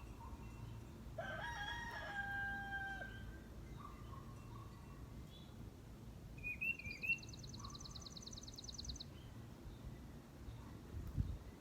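A rooster crows once, about a second in, ending on a long held note. Small birds chirp around it, and a fast high trill from another bird runs for a couple of seconds in the second half.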